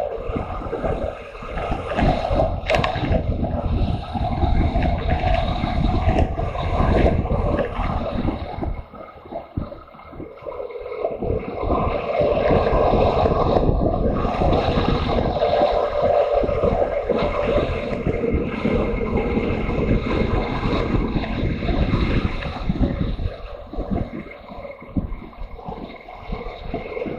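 Motorcycle engine running on the move under wind rush on the microphone. The sound eases off briefly about nine seconds in and again near the end.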